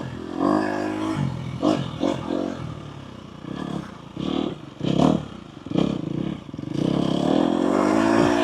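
Dirt bike engine revving up and down over and over on a trail ride, with clattering knocks in between. It eases off around the middle, then pulls steadily and louder near the end.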